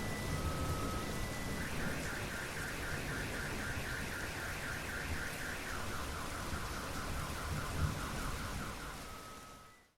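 A car alarm sounds over steady rain, cycling through its tones: short steady beeps, then a fast warbling pulse about six times a second, then a lower warble, then a steady tone. Both alarm and rain fade out near the end.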